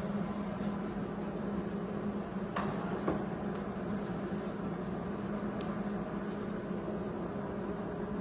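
Steady electrical hum of a Hobart MIG welder that is switched on but not striking an arc, with a few light clicks; the ground clamp is off, so no weld starts.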